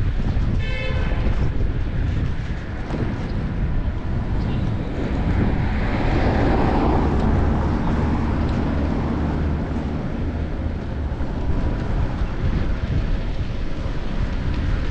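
Wind rushing over a chest-mounted action camera and city traffic noise while cycling, with a larger vehicle passing close by about six to nine seconds in. A brief high tone sounds about a second in.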